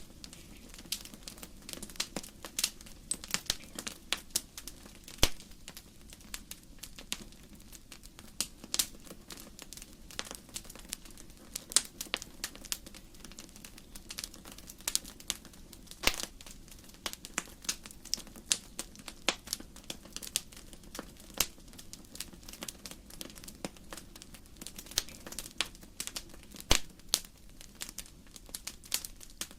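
Wood fire in a fireplace crackling: sharp pops and snaps of burning logs at irregular intervals, several a second, some much louder than others, over a low steady hiss of the flames.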